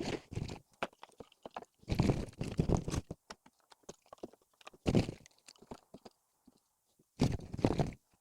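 Split firewood being handled and stacked: pieces of wood knocking and scraping against each other in several separate bursts.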